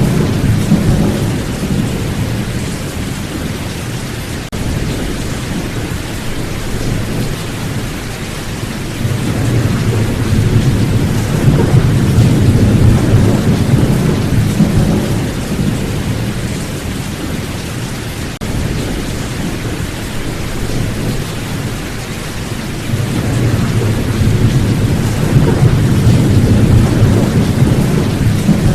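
Steady heavy rain with rolling thunder: deep low rumbles swell and fade three times, at the start, through the middle and near the end, over the unbroken hiss of the rain.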